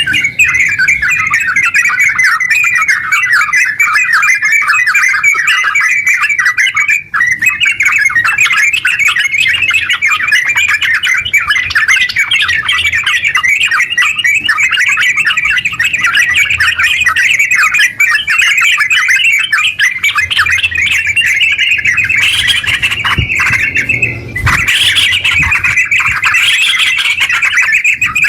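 Yellow-vented bulbul (trucukan) song in the rapid, unbroken 'ngeropel' style: a dense run of quick chirping notes, with brief pauses about seven seconds in and again near the end.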